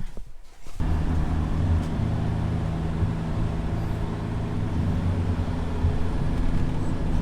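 Engine and road noise heard from inside a moving vehicle: a steady low drone that cuts in suddenly about a second in.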